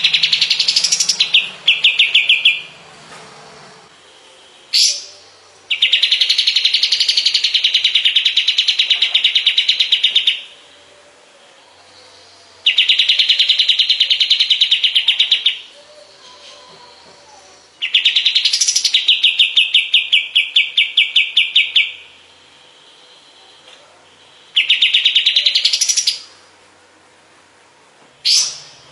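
Kapas tembak bird singing: rapid rattling trills of fast repeated notes, delivered in bursts of a few seconds each with short pauses between, and a few brief upward-sweeping notes in the gaps.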